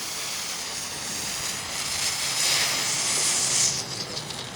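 Firework smoke ball burning, spewing smoke with a steady hiss that swells louder about two seconds in and dies away near the end as it burns out.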